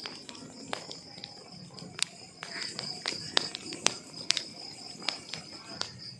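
Burning wood logs crackling, with irregular sharp pops and snaps, over a steady high-pitched trill.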